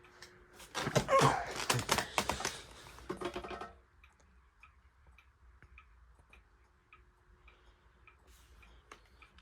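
A loud clatter of knocks and rattles for about three seconds, then a clock ticking about twice a second over the faint steady hum of the SMC A52 ceiling fan's motor.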